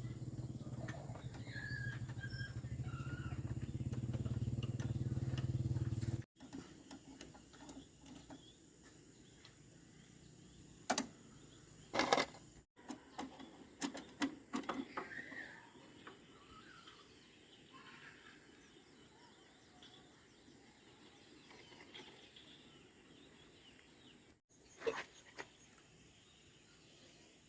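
A tractor engine running steadily and growing louder, cut off abruptly about six seconds in. After that come a few sharp metallic clinks and knocks, with birds chirping faintly.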